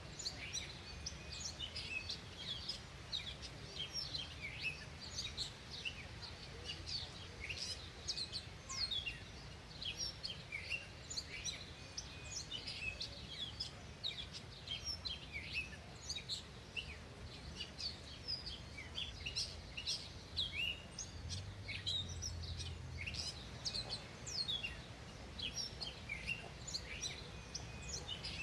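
Many small songbirds chirping and calling continuously, in quick short notes that overlap, over a low steady background rumble.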